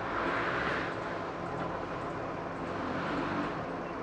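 Off-road vehicle engine running while crawling, under a rushing noise that swells in the first second and again near the end.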